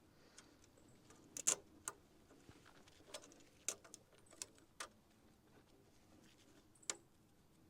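Sparse light clicks and taps of small tools being handled against a wooden board while it is measured and marked, the loudest about one and a half seconds in.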